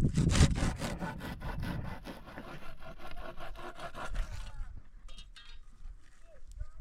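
Saw cutting wood in rapid, even back-and-forth strokes that stop about four and a half seconds in.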